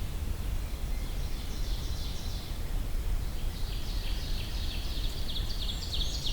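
Small woodland songbirds calling with high, thin notes. There is a short jumble of notes about a second in, then a longer run of rapid, rhythmic high notes from about three and a half seconds in. A steady low background rumble runs underneath.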